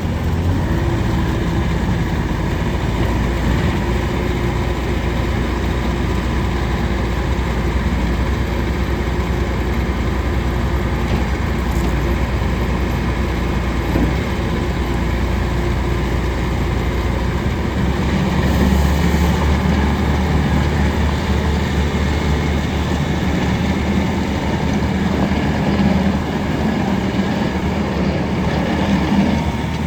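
Bobcat S570 skid steer loader's diesel engine running steadily, its note changing a little past halfway through.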